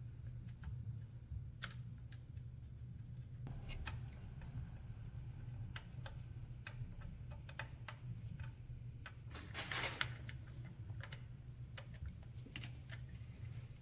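Light metallic clicks and taps of a distributor's mounting fasteners being started and handled with hand tools, scattered irregularly, with a short rattle about ten seconds in.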